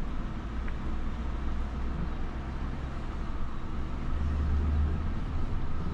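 Road and engine noise inside a moving car: a steady low rumble that swells slightly about four seconds in.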